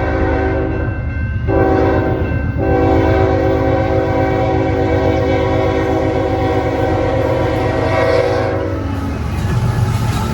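Locomotive air horn sounding a chord in the grade-crossing pattern: a blast that ends about a second in, a short blast, then a long blast held until about nine seconds in. The low rumble of the locomotive and train runs underneath and carries on after the horn stops.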